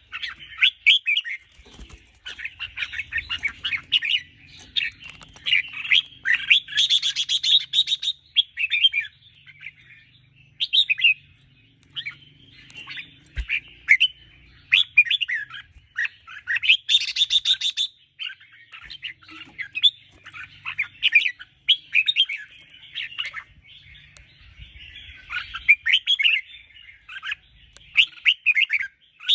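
Red-whiskered bulbul singing: short, chirpy, sliding phrases repeated with brief pauses. Two busier, louder bursts come at about a quarter and at about the middle of the stretch.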